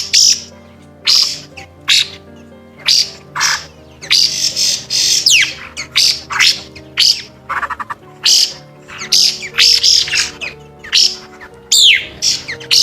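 White-browed laughingthrush calling over and over: harsh squawks and chirps in quick succession, about two a second, some ending in a falling whistled sweep, as in a lure call used to draw a flock. Background music with held low notes plays underneath.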